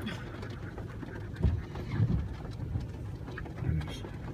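Steady rain and wind noise of a thunderstorm, with a few short low thumps about one and a half, two and nearly four seconds in.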